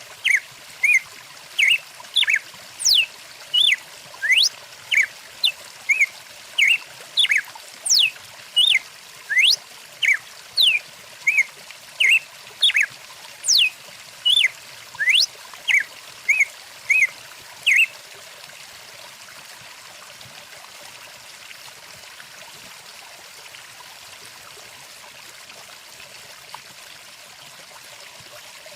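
A songbird calls a rapid series of sharp whistled notes, about two a second, some sweeping down and some up in pitch, over the steady rush of a stream. The bird stops about eighteen seconds in, leaving only the running water.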